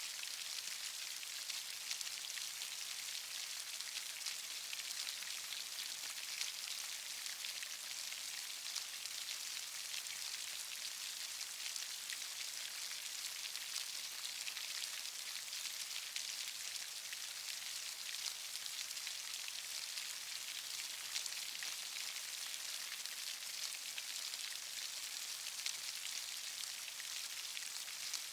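Steady rain with a dense patter of individual drops, even in loudness throughout.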